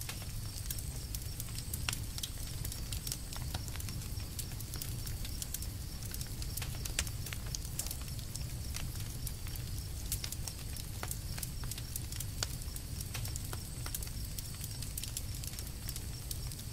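Campfire crackling: burning wood giving off frequent, irregular sharp pops and snaps over a low, steady rumble of the flames.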